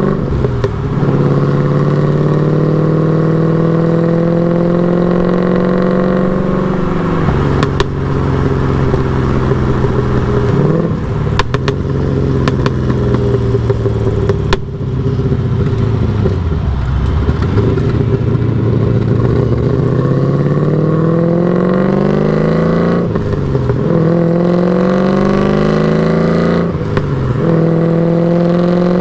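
LS1 V8 in a BMW E36 pulling through the gears of its T56 manual: engine pitch climbs, then drops sharply at upshifts about 7, 10, 23 and 27 seconds in. It falls off-throttle for a few seconds mid-way, then climbs again. A few sharp clicks sound around the middle.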